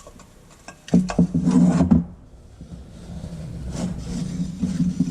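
Metal parts of an old Coleman lantern scraping and rubbing as they are handled and twisted to unthread. There is one loud stretch of scraping about a second in, lasting about a second, then fainter rubbing that slowly builds.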